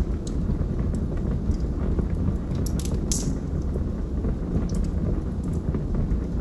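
Wood fire burning in a fireplace: a steady low rumble of flames with scattered sharp crackles and pops, a brief flurry of louder pops about three seconds in.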